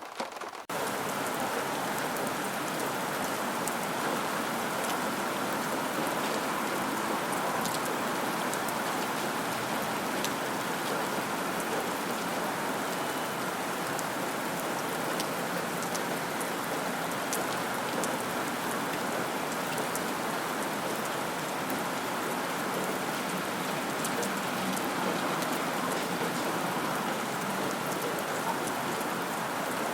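Steady rainfall, an even hiss of rain with scattered individual drop ticks. It cuts in abruptly just under a second in and holds level after that.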